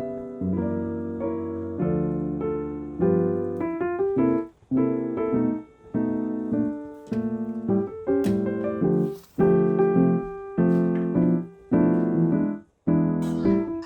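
Background piano music: gentle chords struck about once a second, each dying away before the next.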